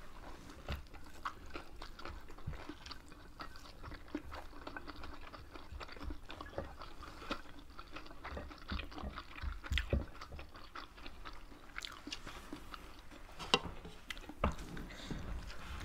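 Two people chewing and biting food, rice, meat and fresh green leaves, with many small wet clicks and crunches from mouths and fingers, and one sharper click near the end.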